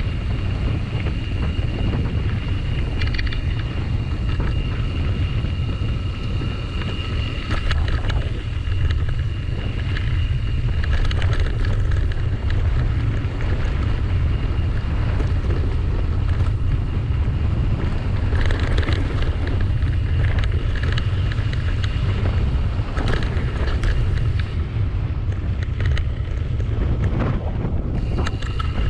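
Wind buffeting the microphone of a camera riding along on a bicycle: a steady, heavy low rumble with no break.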